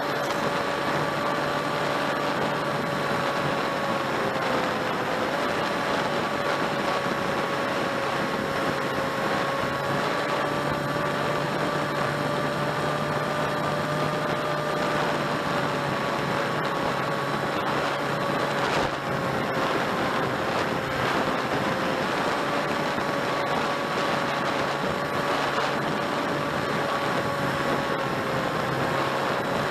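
RC model plane's electric motor and propeller running steadily in flight: a held whine that drifts only slightly in pitch over a steady rushing hiss.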